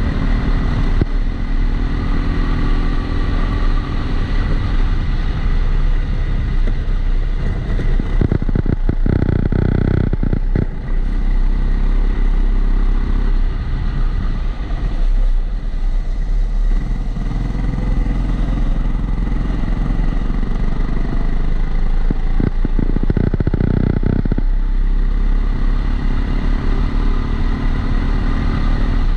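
Kombikart Eco kart's engine heard on board, its note rising and falling as the kart speeds up and slows for corners, with rattling stretches twice. A steady high tone rides over it.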